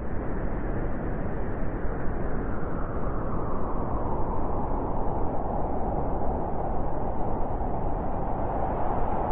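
Blizzard wind blowing in a steady rush, with a howling note that grows stronger about halfway through.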